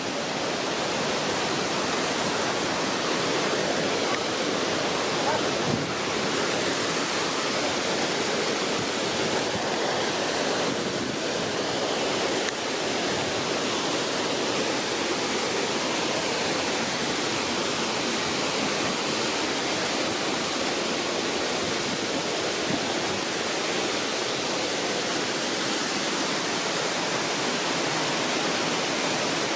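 Steady rushing roar of a tall waterfall, Roaring Brook Falls, with falling water hissing evenly and without a break.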